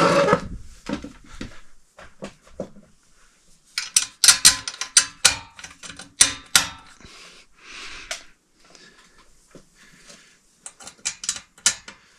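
Metal screws and a screwdriver clicking and rattling against a ceiling fan's metal mounting parts in quick clusters, as screws that don't fit are forced in without threading. There is a louder clatter at the start and dense runs of clicks in the middle and near the end.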